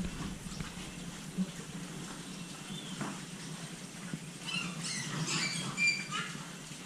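Piglets squealing: a cluster of short, high-pitched squeaks in the second half.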